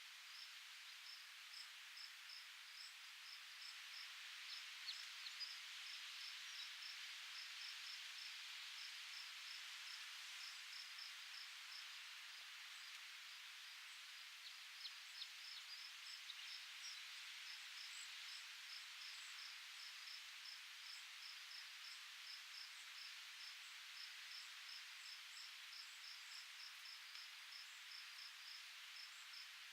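Faint, steady hiss of wind with an insect chirping in an even rhythm, about three short chirps a second.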